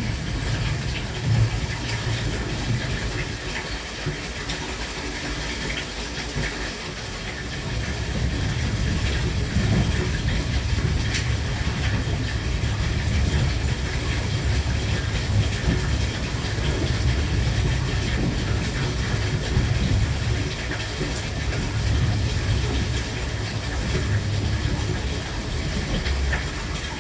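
JR West Thunderbird limited express train running, a steady low rumble with rail clatter.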